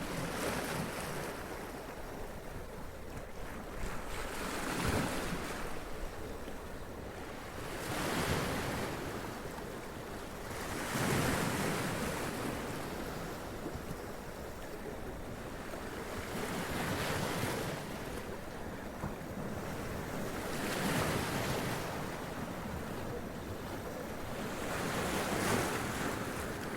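Sea waves washing up over rocks and splashing, a continuous surf hiss that surges every few seconds as each wave breaks and drains back.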